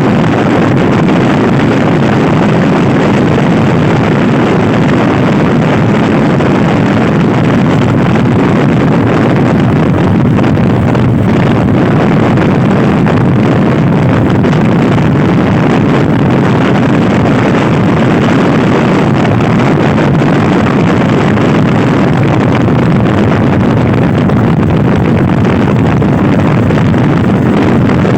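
Loud, steady wind noise on the microphone from riding a stock Honda Scoopy-i scooter at speed, an even rushing roar with no breaks.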